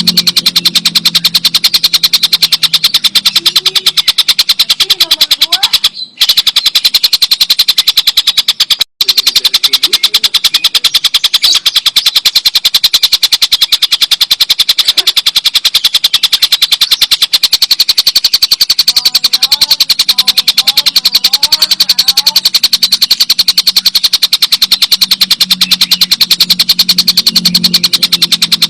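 Stork-billed kingfisher (tengkek buto) giving its long, loud cackling call, a very fast high rattle repeated without a break, cut by two brief gaps about six and nine seconds in.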